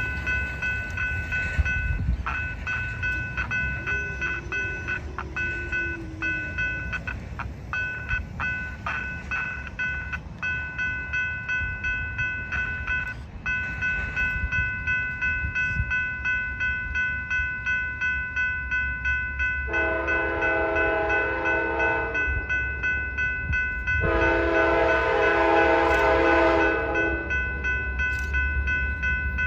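Passing train with a rhythmic clatter of wheels over rail joints, under a steady high-pitched ringing tone. The locomotive horn sounds two long blasts, about 20 and 24 seconds in, each lasting around three seconds.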